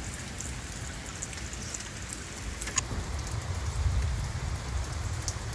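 Steady rain falling, with scattered short ticks of drops over a low rumble.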